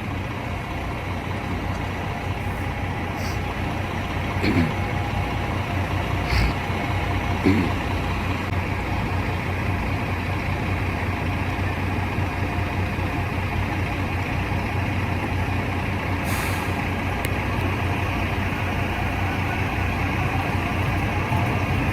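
Steady rumble of vehicle engines and traffic at a busy street intersection, with a fast low pulsing throughout and a brief hiss about sixteen seconds in.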